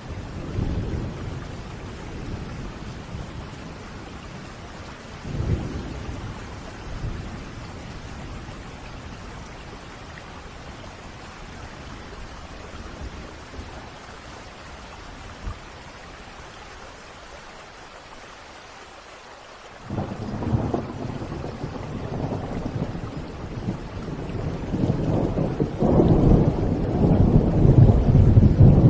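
Steady rain with thunder rolling through it: short rumbles near the start and about five seconds in, then thunder breaking suddenly at about twenty seconds and swelling into a long, heavy rumble near the end.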